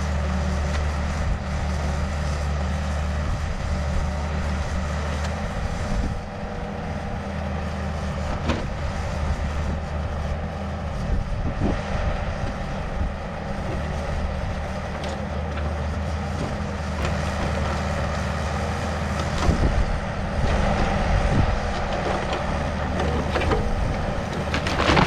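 Yanmar excavator's diesel engine running steadily under load while digging at a tree's roots, with scattered knocks and cracks and a louder burst of noise near the end.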